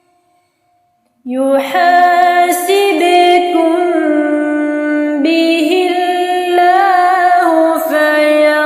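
A woman's voice chanting Quran recitation (tartil), holding long drawn-out notes that slide slowly up and down. It comes in after about a second of silence.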